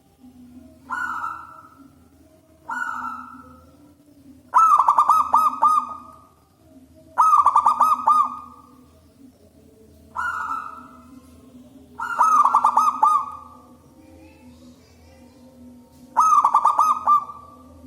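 Zebra dove (perkutut) cooing loudly: about seven rolling coo phrases, one every two to three seconds, the longer ones a fast stuttering series of notes. A faint steady low hum runs underneath.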